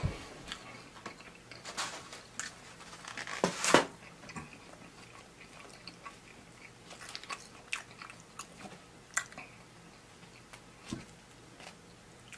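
A man chewing and biting loaded fries, with scattered sharp crunches and mouth clicks. The loudest crunches come about three and a half seconds in.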